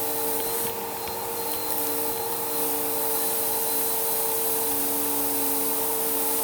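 Vacuum cleaner with a spinning brushroll running steadily: an even motor whine over airflow hiss, with a few light ticks.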